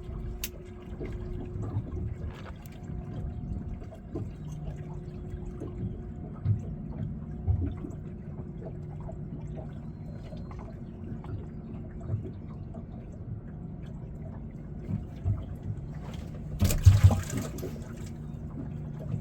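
Water sloshing and trickling around a fishing boat, over a faint steady hum, with small knocks and a louder splash near the end.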